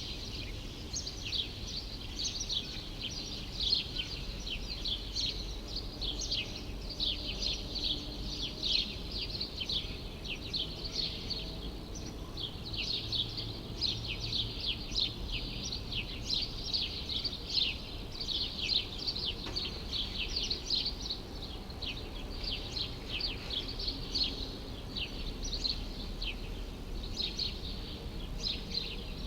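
Many small birds chirping continuously in overlapping short calls, over a faint, steady low rumble of city background noise.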